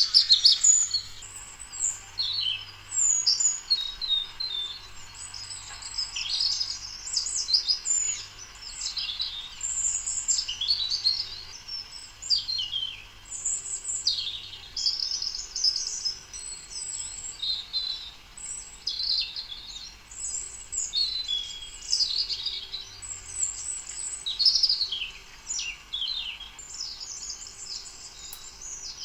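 Songbirds chirping and singing in a dense, continuous chorus of many short, high chirps and trills overlapping one another.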